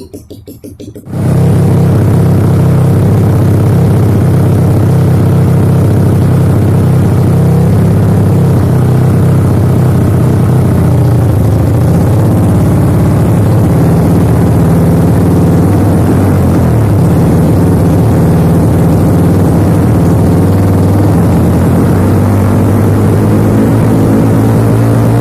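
Kawasaki KLX trail bike's single-cylinder engine running loud and steady through an Over Racing aftermarket exhaust, jumping up sharply about a second in, its pitch rising and falling a little around the middle.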